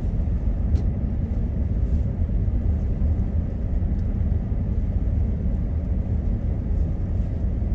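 Steady low rumble of road and drivetrain noise inside a vehicle driving along a snowy road.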